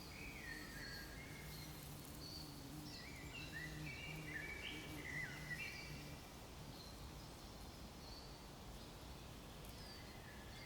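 Faint bird chirps, short falling notes repeated over a quiet outdoor background, thinning out after about six seconds.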